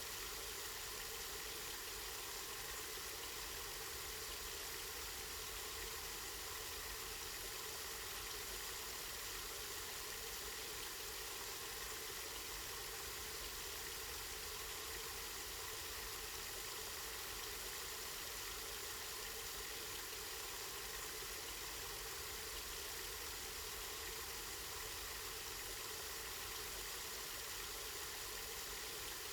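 Water from a spring flowing steadily, an even, unbroken rush of running water.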